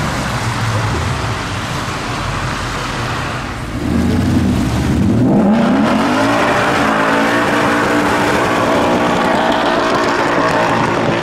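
Sixth-generation Ford Mustang pulling out of a junction and accelerating away, its engine rumbling low at first, then revving up sharply about four to five seconds in and running loud and high as it drives off.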